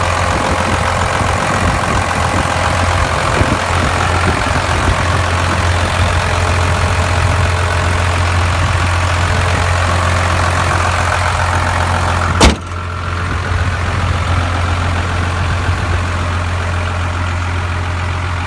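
1996 Dodge 2500's Cummins turbo-diesel inline-six idling steadily. A single sharp knock comes about twelve seconds in, and after it the sound is more muffled.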